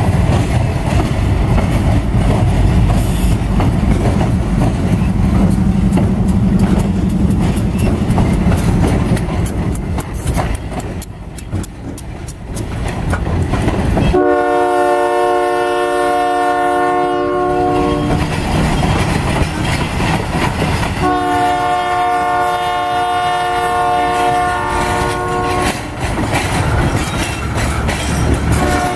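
Diesel locomotives rumbling past, then a wreck train's boxcars and crane cars clattering along the rails. About 14 seconds in, the locomotive's air horn sounds a long chord. A second long blast comes about seven seconds later, and a third starts at the very end.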